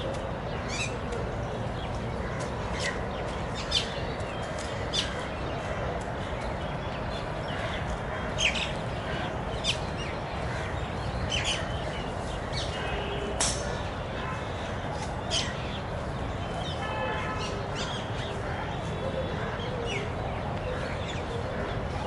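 Birds chirping now and then: a dozen or so short, sharp, high chirps scattered over a steady background of outdoor noise.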